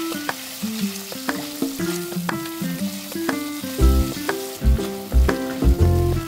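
Sliced beef sizzling in hot oil in a wok as it is stirred with a wooden spatula, under background music of quick plucked notes. A deep bass line comes in about four seconds in.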